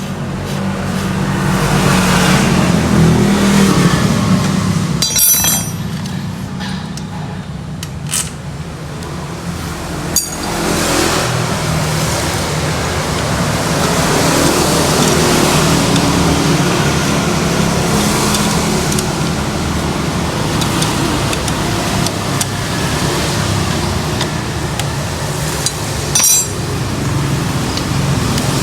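A steady low motor-vehicle engine drone runs throughout. Over it come a few sharp metallic clicks of hand tools while the starter motor is being bolted back on.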